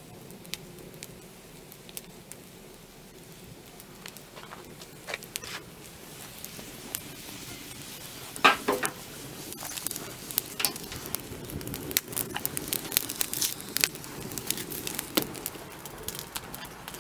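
Wood fire crackling and popping with sharp irregular snaps. The pops are sparse at first, with a loud burst of crackling about halfway through, then come thicker and faster.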